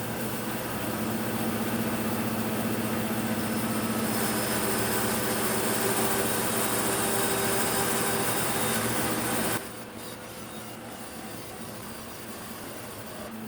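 Restored 1950s Delta Milwaukee Crescent 20-inch bandsaw with its 3 horsepower motor, a new blade ripping a 5.25-inch-thick black walnut board, a steady hum under the noise of the cut. About nine and a half seconds in, the sound drops suddenly to a quieter steady run.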